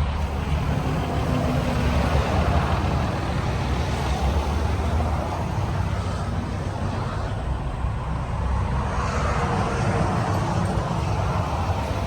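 Jeep Wrangler Rubicon's 3.0-litre diesel V6 idling, a steady low rumble.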